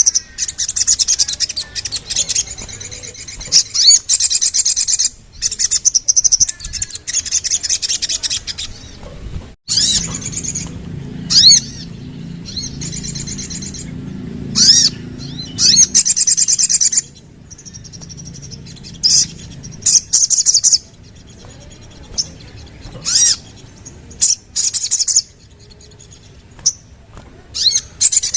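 Sogon (sogok ontong) songbird singing: loud, rapid, high-pitched trilling phrases in bursts of one to four seconds, broken by short pauses and sharp single notes. A low hum runs under the song for a few seconds in the middle.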